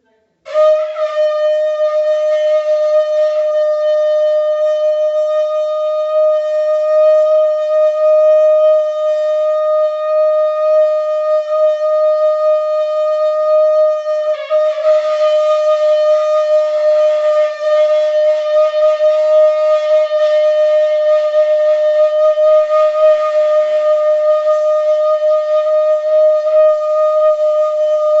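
Conch shell (shankha) blown as shankhnaad in one long, steady, unwavering note. About halfway through, the note briefly breaks and wavers before it steadies and holds again.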